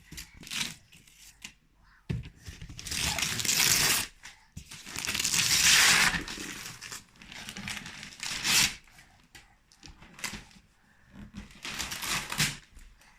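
Gift-wrapping paper being torn and crumpled as a present is unwrapped, in several bursts of a second or two each.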